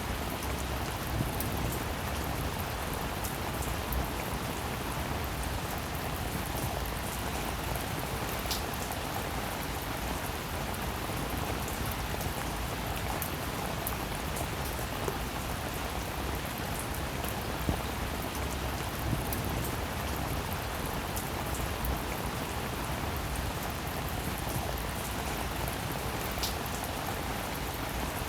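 Steady rainfall, an even hiss of drops with a few louder single drops ticking out sharply now and then.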